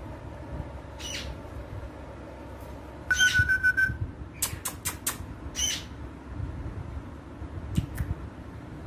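Indian ringneck parakeet squawking and calling in short, sharp calls. About three seconds in it gives one held whistle-like call, then a quick run of sharp calls, then a few more short calls near the end.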